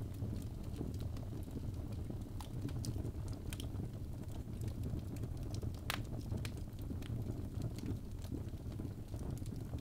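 Birch-log wood fire burning with a steady low rumble and scattered sharp crackles and pops, the loudest pop about six seconds in.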